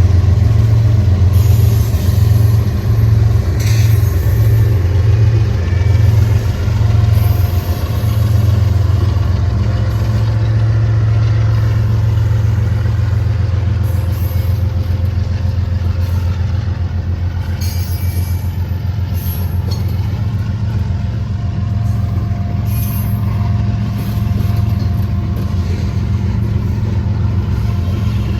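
A diesel freight train passing at trackside: the steady, heavy low hum of its locomotive engines with the running noise of the train, and a few short high squeaks now and then from the wheels.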